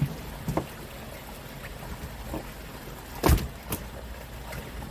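Steady noise of a small fishing boat on the water, with a few knocks on the boat, the loudest a sharp thump about three seconds in followed by a lighter one.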